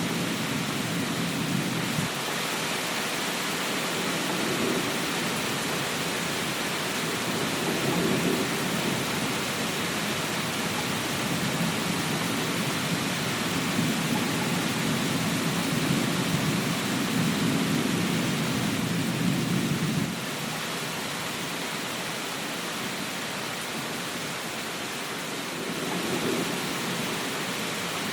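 Steady rain hiss with rolling thunder rumbling underneath in long swells. The longest swell lasts from about 13 to 20 seconds in and cuts off suddenly, and a shorter one comes near the end.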